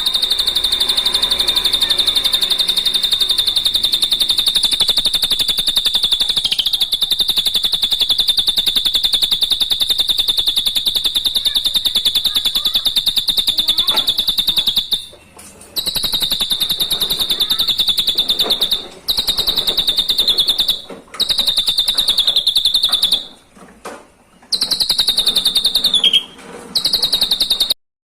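Drongo (srigunting) song: a long, very rapid high-pitched trill held at one steady pitch, broken by several short pauses in the second half.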